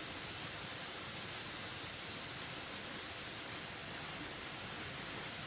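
Steady outdoor background hiss with a constant thin high-pitched drone running through it.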